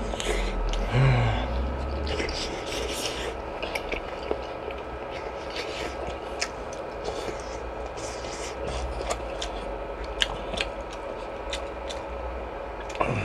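Close-miked eating sounds: chewing and mouth noises with many small sharp clicks while fish cake soup is eaten, and a brief hum of the voice about a second in.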